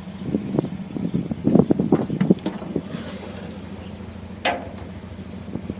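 Steady low hum of an idling car engine, with a few short irregular sounds and a single sharp click about four and a half seconds in.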